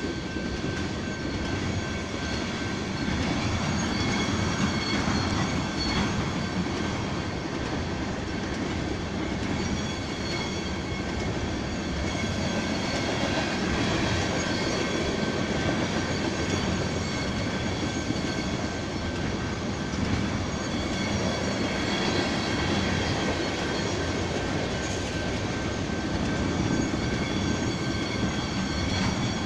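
A long freight train of petroleum tank wagons rolling past, with a steady rumble of wheels on rails and a thin, steady high squeal over it.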